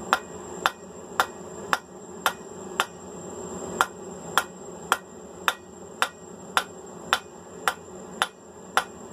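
Blacksmith's hammer striking steel on an anvil in a steady rhythm, about two blows a second with one short pause about three seconds in, as the mild steel bar is forged. A steady low hum runs underneath.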